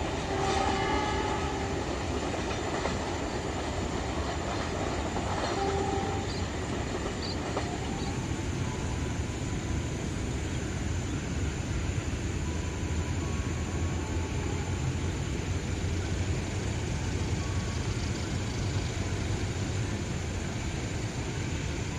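Passenger train passing close by, its carriages rumbling steadily on the track with some wheel clatter. A horn sounds briefly in the first second and again about six seconds in.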